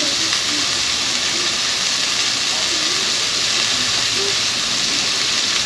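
Vegetables and garlic frying in butter in a sauté pan: a steady sizzling hiss.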